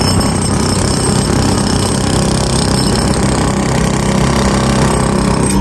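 Construction machinery at bridge repair work running loudly and steadily, without a break.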